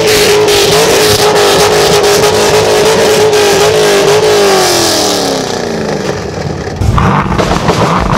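A sports car engine revved hard and held at high revs for several seconds, then the revs fall away about five seconds in. A lower engine note follows near the end.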